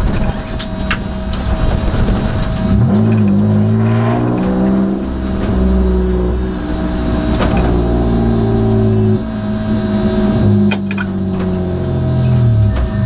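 2002 Nissan Maxima race car's V6 engine under racing load, revving up a few seconds in, holding, then easing off and falling in pitch near the end, with a few sharp knocks along the way.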